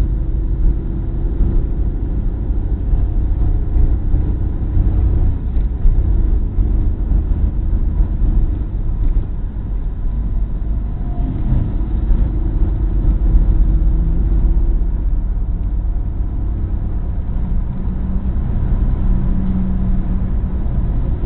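Opel Corsa's engine and tyre and road noise heard from inside the cabin at sustained high speed, the car taken flat out, with the engine note holding fairly steady and shifting slowly in pitch.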